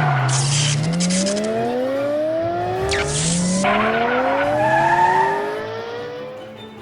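Cartoon sound effect of a race car engine revving up twice, its pitch climbing each time, with brief tire screeches as each rev begins.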